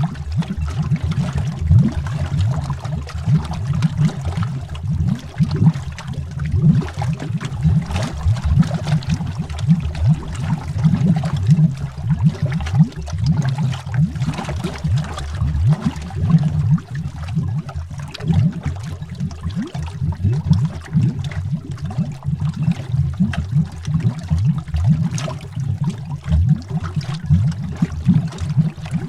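Continuous underwater bubbling: a dense stream of bubbles rising through water, heard as a steady low burble with rapid small pops.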